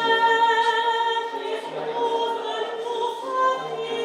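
Operatic voice practice: a classically trained singer holding long sung notes, moving to a new pitch every second or so.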